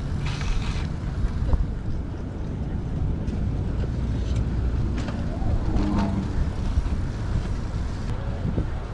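Wind buffeting an action camera's microphone while cycling, a steady low rumble, with a few faint clicks and a brief faint voice about five to six seconds in.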